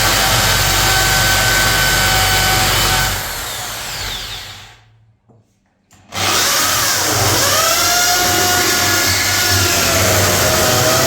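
Electric power tool running at speed, its motor whine wavering in pitch as it works. It winds down about three seconds in and falls silent briefly, then starts up sharply again about six seconds in and runs on.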